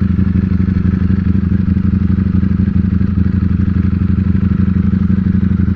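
Ducati Panigale V4 S's V4 engine running steadily, its note holding at one constant pitch with no revving.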